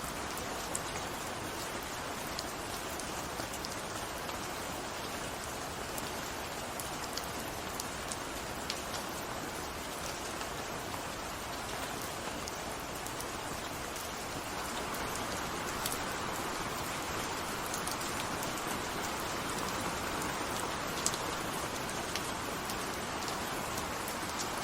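Steady rain falling: an even hiss dotted with sharp ticks of single drops. It grows slightly louder about fifteen seconds in.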